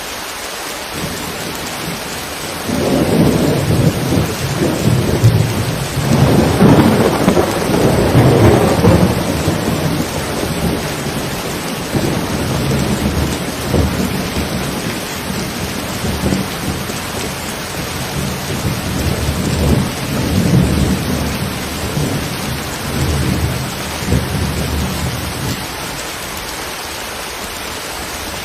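Steady rain with a long roll of thunder over it: the rumble starts a few seconds in, is loudest over its first several seconds, then rumbles on more softly in waves and dies away a few seconds before the end.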